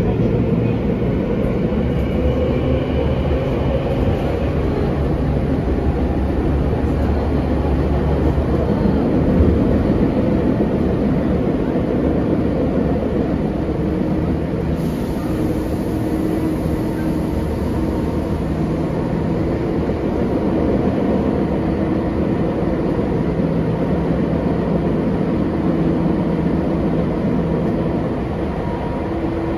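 Running noise of a Tobu 9000-series electric commuter train heard from inside the passenger car: a steady rumble of wheels on rail with traction-motor hum.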